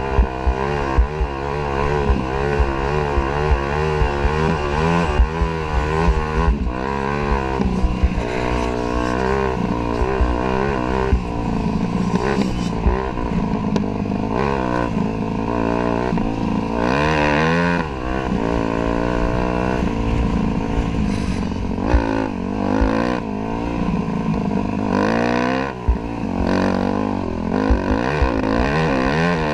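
Dirt bike engine running while being ridden, its revs rising and falling over and over, with short low thumps mixed in.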